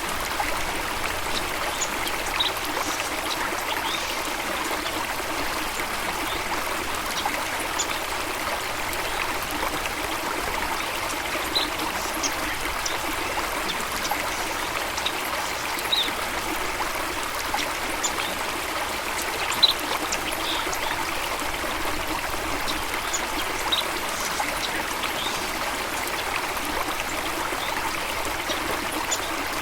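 Steady rush of flowing water, with short high bird chirps scattered every few seconds.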